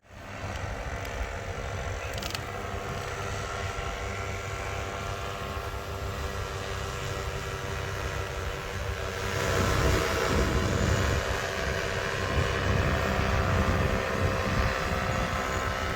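A steady motor drone with a low rumble, growing louder about nine seconds in.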